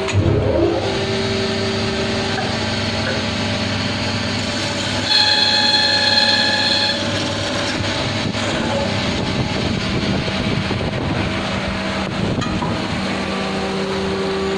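Hydraulic turning machine (SPM) for ceiling fan rotors running with a steady mechanical hum. About five seconds in, a high ringing tone sounds for about two seconds.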